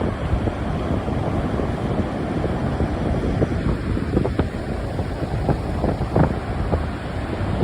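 Strong wind blowing over the microphone, a steady low noise with brief gusts.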